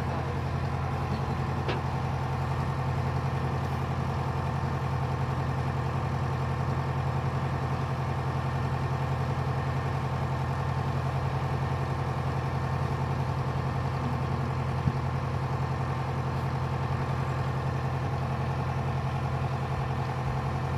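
Narrowboat's inboard diesel engine running steadily at a constant low throttle, a continuous even drone. One brief sharp tick about fifteen seconds in.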